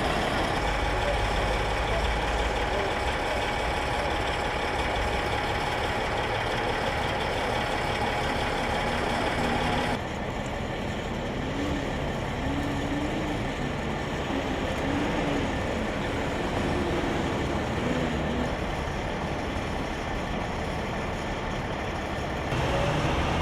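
Heavy truck diesel engine running steadily; the sound changes abruptly to a quieter, duller stretch about ten seconds in and back again near the end.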